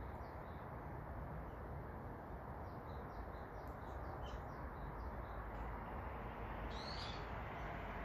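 Small woodland birds chirping: short high calls scattered through, with one louder call near the end, over a steady low background rush.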